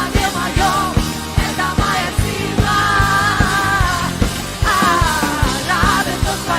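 Rock-style worship music from a band, with drums keeping a steady beat under held, wavering melody lines and no sung words.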